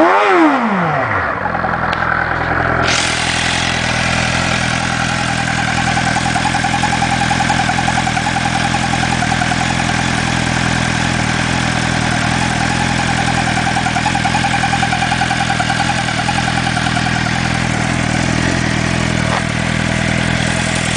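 2007 Suzuki GSX-R600 sport bike's inline-four engine blipped once, rising and falling back, then idling steadily, with a steady hiss joining about three seconds in. The owner finds these idle noises strange.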